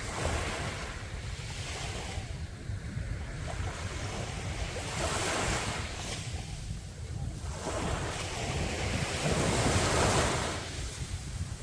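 Sea waves breaking on a beach in light drizzle, the surf swelling and fading about three times, loudest near the end. Wind on the microphone adds a steady low rumble.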